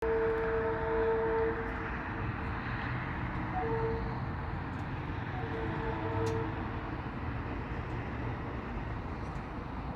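Train passing with a steady rumble while its horn sounds a chord: one long blast of about a second and a half, then two shorter blasts.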